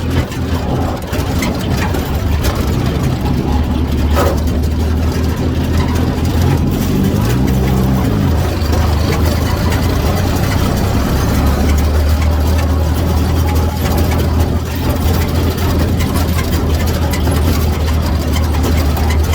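Truck engine idling steadily, with one brief rev that rises and falls about seven seconds in. A single sharp click sounds about four seconds in.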